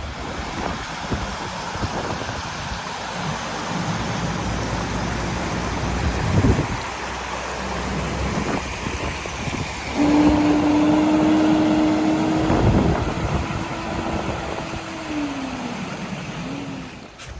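Outdoor traffic and wind noise. About ten seconds in, a single steady low tone starts suddenly, holds for about five seconds, then drops in pitch as it ends.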